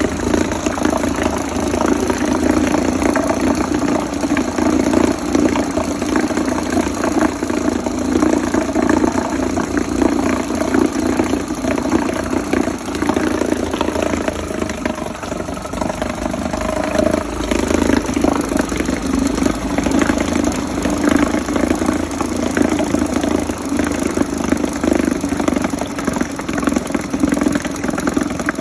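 Small 2-horsepower outboard motor running steadily at idle.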